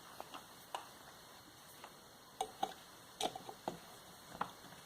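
Faint, irregular clicks and light knocks of tools and metal motor parts being handled while a vacuum motor is taken apart, a few clustered around the middle and again near the end.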